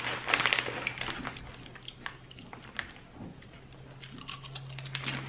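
A person chewing crunchy ghost pepper potato chips: irregular crisp crunches, busiest in the first second and again near the end, over a faint steady low hum.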